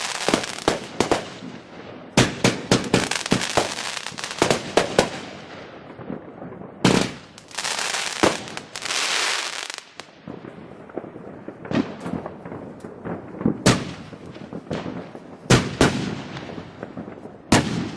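Fireworks going off: rapid volleys of sharp bangs and crackle in the first five seconds, then two hissing rushes lasting about a second each, around seven to ten seconds in. Sparser single bangs follow.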